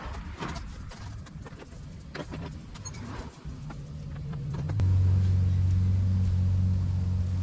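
A few sharp knocks of hammer blows on metal. About five seconds in, a loud, steady low motor hum starts and carries on.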